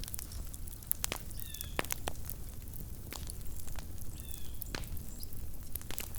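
Campfire burning with irregular sharp crackles and pops of burning wood over a steady low rumble. Twice, at about a second and a half and a little after four seconds, comes a brief high chirp.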